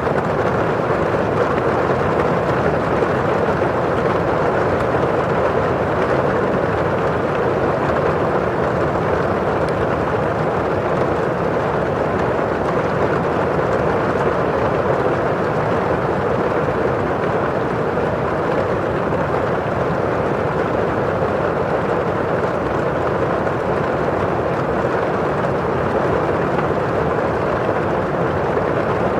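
Steady rain on a window pane and outside: a constant, even, rather dull rushing, with no single drops standing out.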